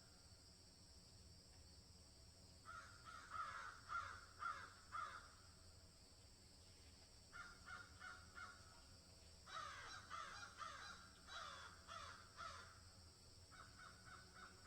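Faint bird calls in four bouts of quick repeated notes, each note falling slightly in pitch, over a steady high hiss.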